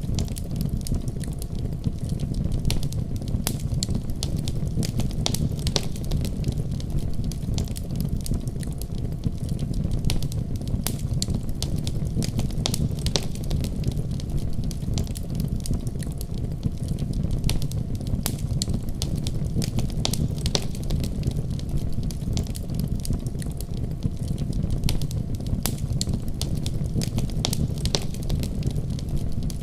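Wood fire crackling in a fireplace: a continual scatter of small sharp pops and snaps over a steady low rumble.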